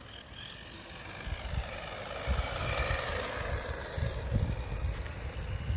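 Brushed electric motor and drivetrain of a 1/16 RC monster truck whining as it runs along a road with tyre noise, the rising whine growing louder over the first few seconds.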